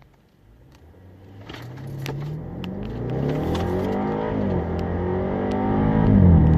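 2018 BMW 650i Gran Coupé's twin-turbo V8 accelerating hard from a standstill, getting louder as the engine note climbs in pitch. The pitch drops with an upshift about four seconds in and again near the end.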